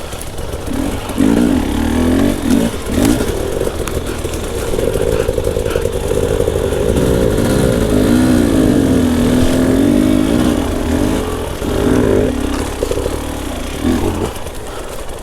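Two-stroke enduro dirt bike engine revving, its pitch rising and falling repeatedly as the throttle is worked on a steep off-road descent and climb.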